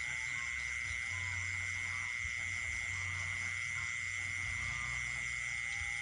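Night chorus of frogs and insects: one insect holds a steady, unbroken trill, others give quick pulsing calls above it, and frogs add scattered short calls, over a low rumble.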